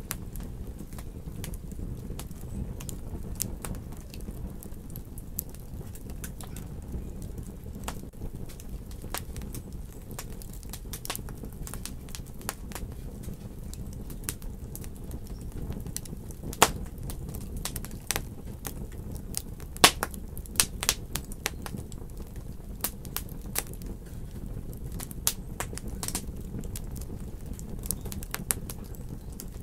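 Wood fire burning in a fireplace: a steady low rumble of flames with scattered sharp crackles and pops, the two loudest pops a few seconds apart near the middle.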